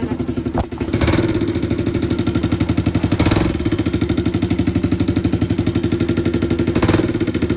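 Kawasaki KLX dirt bike's single-cylinder four-stroke engine running while it warms up, with steady even firing pulses. It sags briefly just under a second in, then picks back up, with a couple of short throttle blips later on.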